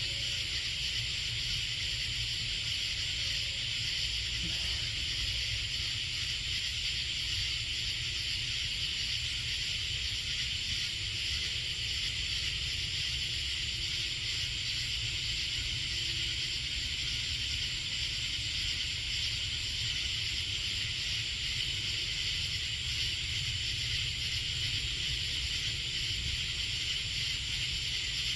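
Steady, high-pitched chorus of night insects, a shrill continuous trill with a fine pulsing, over a low, steady rumble.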